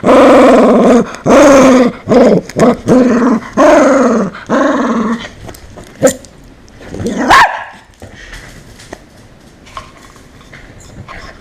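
A dog barking and growling loudly in a rapid run of calls for about five seconds, then a single high yelp about seven seconds in.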